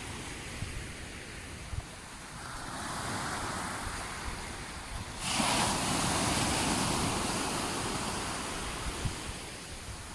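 Sea waves breaking and washing up: a smaller swell of surf a few seconds in, then a bigger wave breaks suddenly about halfway and its wash slowly fades. Wind rumbles on the microphone underneath.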